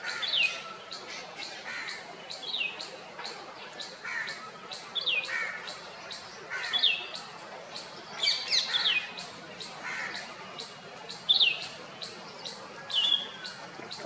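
A bird calling over and over: short single notes that fall in pitch, one every second or two, twice in quick succession about two-thirds of the way through. Faint, fast, regular high ticking runs underneath.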